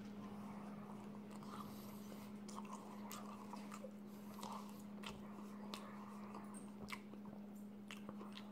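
Close-up chewing and biting of a McDonald's double Big Mac: soft, wet mouth sounds with scattered irregular clicks and smacks. A steady low hum runs underneath.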